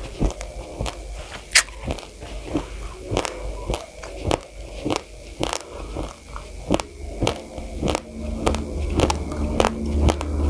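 Uncooked rice grains crunched between the teeth, mouth closed: a steady run of sharp, irregular crunches, a few each second.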